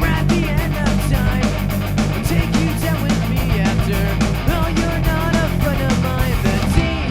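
A rock band playing a song live in a punk-rock style, with guitar, steady drum hits and sustained low notes.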